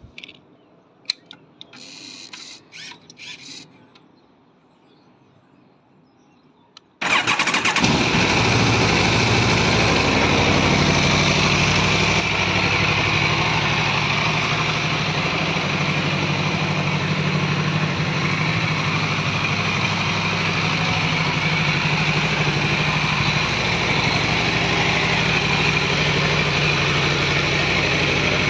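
2021 Aprilia RSV4 Factory's V4 engine on its stock exhaust, cold-started: a few clicks and short whirs, a pause, then the engine catches abruptly about seven seconds in and settles into a steady fast cold idle, easing slightly a few seconds later.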